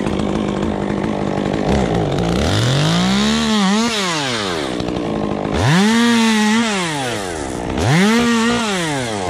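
Two-stroke chainsaw running at high speed, then revved up, held briefly and let back down three times.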